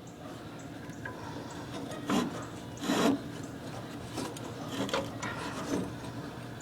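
A handful of short scraping, rubbing strokes from the Murray lawn tractor's manual PTO lever and deck linkage being worked by hand, over a faint steady hum. The strongest strokes come about two and three seconds in.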